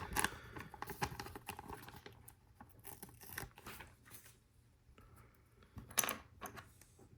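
Plastic Lego Technic pieces clicking, rattling and scraping as they are handled and searched through, with a sharper click about six seconds in.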